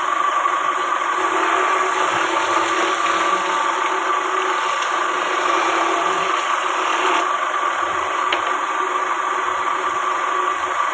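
A motor running steadily, a constant hum with a held whining tone and no change in speed.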